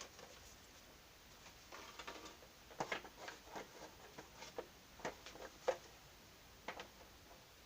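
Light, irregular clicks and taps of small objects being handled and set down, about a dozen over five seconds, the sharpest about three and five and a half seconds in.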